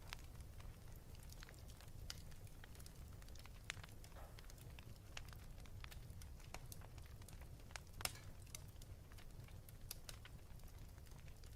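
Wood fire burning in a fireplace: a low steady rumble of flames with scattered crackles and pops, the sharpest about eight seconds in.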